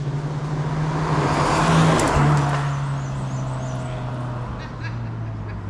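A hillclimb race car drives past under power, loudest about two seconds in. After that its engine note drops in pitch and fades as it moves away.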